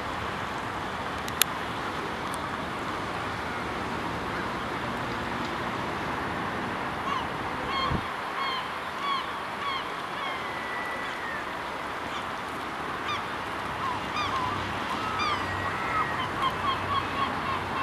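Birds calling over a steady background hiss: short pitched calls begin about seven seconds in, with a couple of longer drawn-out calls, and come thick and fast near the end. A single sharp click just over a second in.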